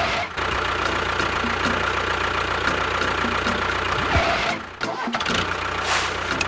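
A small engine running steadily with a thin whine, broken by two short dips, about a third of a second in and again near five seconds in.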